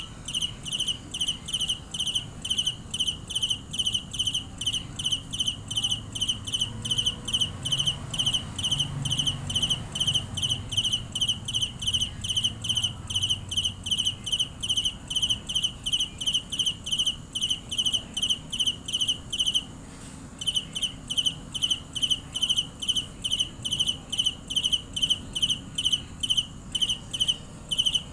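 Cricket chirping steadily, about three short high chirps a second, with one brief pause about twenty seconds in.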